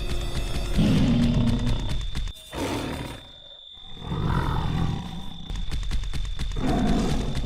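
Tiger roaring and growling in bouts, with a short break about three seconds in.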